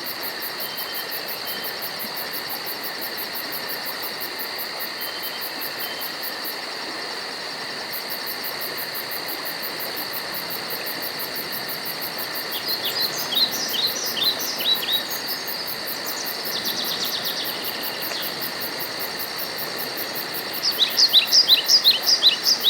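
Nature ambience: insects chirring steadily with a fast even pulse, with a bird calling in quick downward-sweeping chirps in two bouts, about halfway through and again, louder, near the end.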